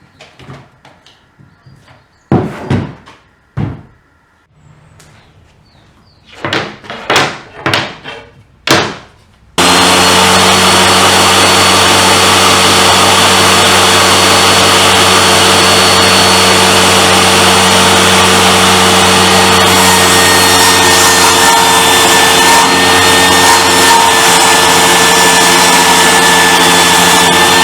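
Several sharp knocks of wood being handled, then about ten seconds in a power tool starts abruptly and runs steadily and loudly, with a constant whine.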